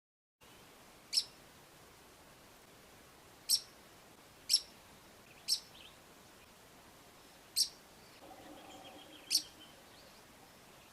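Pied kingfisher calling: seven short, sharp, high-pitched notes at uneven intervals.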